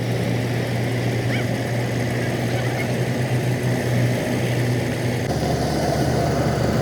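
An engine running steadily with a low, even hum; the sound shifts about five seconds in.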